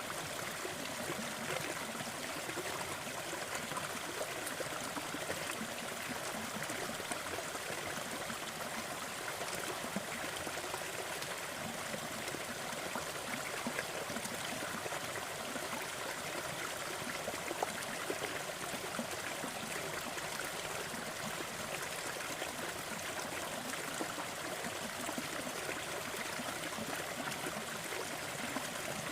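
Fireplace crackling, with small pops scattered through a steady rushing noise.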